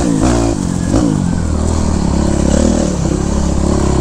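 Yamaha YZ426F four-stroke single-cylinder dirt bike engine revving up and down, with the throttle blipped twice in the first second or so. It then settles into steadier running at lower revs.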